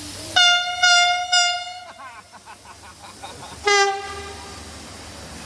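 Train whistle sounding three short blasts, then a shorter blast at a lower pitch about three and a half seconds in. A quick run of clicks lies between them.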